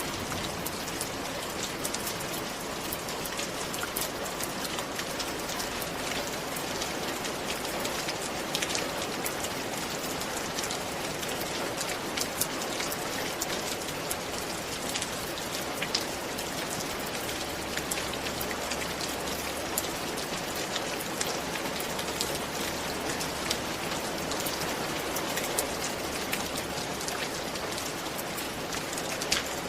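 Steady rain falling, an even hiss with many separate drops tapping on a hard surface.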